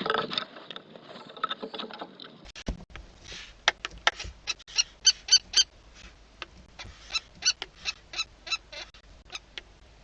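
A kestrel and a barn owl calling: a harsh, rasping call for the first couple of seconds, then a run of short, sharp, repeated calls at about two to three a second, coming in two spells.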